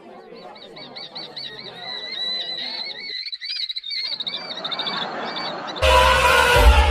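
An animal's quick, repeated high-pitched chirping calls. Near the end, loud music cuts in suddenly.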